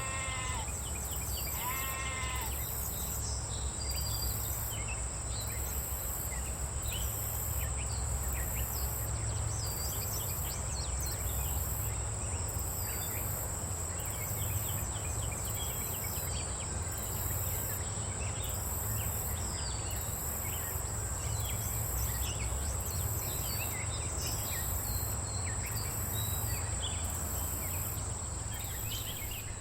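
Bleating livestock, two wavering calls in the first couple of seconds, then a steady outdoor background: a low rumble, many scattered short high chirps, a steady high whine and a high hiss that pulses about twice a second.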